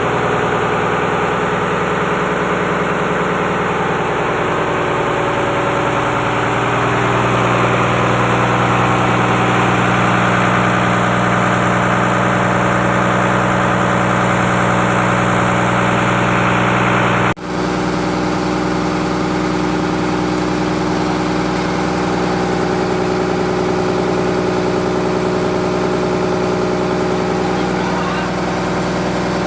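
Engine of a fishing boat's freezer machine running steadily on a test run. There is a brief break in the sound about 17 seconds in.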